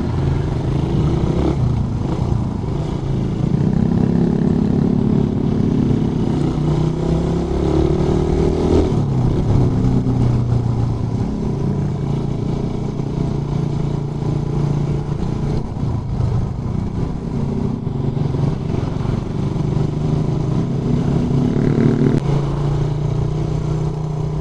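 Suzuki Raider 150 carburettor motorcycle's single-cylinder four-stroke engine under way, its pitch climbing as it accelerates and dropping at each gear change, three times.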